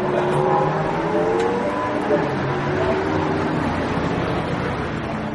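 High-performance car engines running at fairly steady revs, their pitch wavering slowly up and down.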